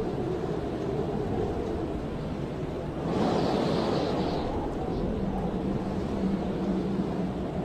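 Blizzard wind blowing in a steady rush, with a stronger gust about three seconds in that adds a brighter hiss. A faint low, steady whistle-like tone comes in about halfway through.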